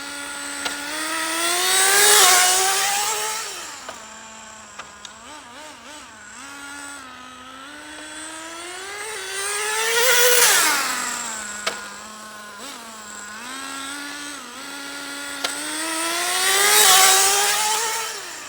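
Small SH-18 nitro engine in an HPI RS4 3 Evo RC car, revving up and easing off three times. Each time its pitch climbs to a loud peak and then falls quickly, with lower running in between. It is being run in on its final break-in tank, accelerated gradually to full throttle and then braked.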